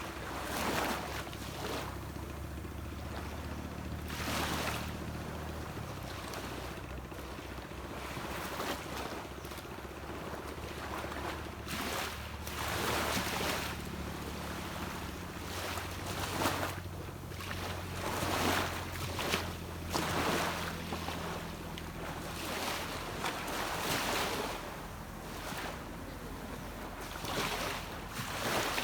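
Sea waves washing onto a beach in repeated surges a few seconds apart, over a low steady drone of a distant boat engine.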